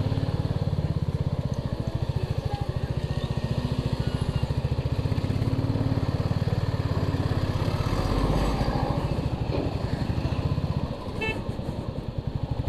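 Motorcycle engine running at road speed with an even, fast pulsing beat from its exhaust, easing off briefly about eleven seconds in. A short horn beep sounds at about the same moment.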